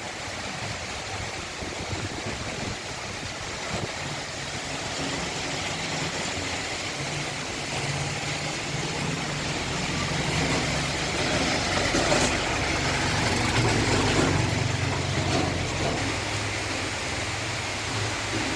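Heavy rain falling steadily, with the low hum of a motor vehicle engine growing louder through the middle and easing off near the end.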